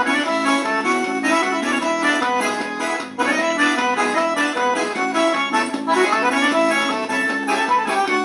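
Accordion playing the lead melody in an instrumental break of a Brazilian forró-style São João song, over a steady backing.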